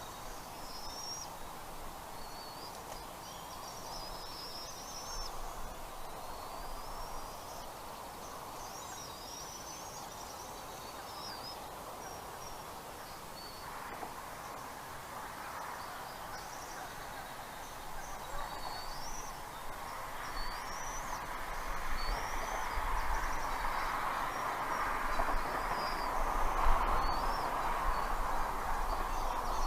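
Birds calling in short, high-pitched sliding chirps every second or two over a steady outdoor noise that grows louder in the second half.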